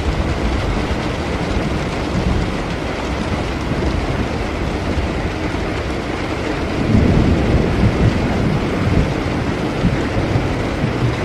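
Steady rain falling, with a low rumble of thunder rolling in about seven seconds in and fading over a couple of seconds.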